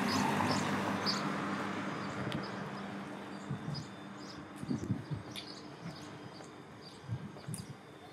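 Small birds chirping in short, repeated calls over outdoor street noise, while a passing vehicle's sound fades away over the first few seconds.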